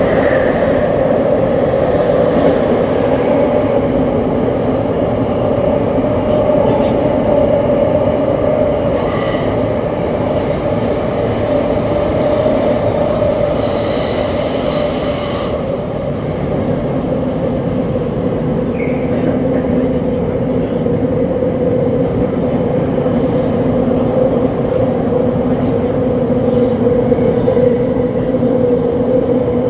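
Tokyo Metro 7000-series subway car with Hitachi IGBT-VVVF traction equipment running, heard from on board: a steady rumble of wheels on rail with a constant hum from the traction system. A brief high squeal comes about halfway through, and a few sharp clicks follow later.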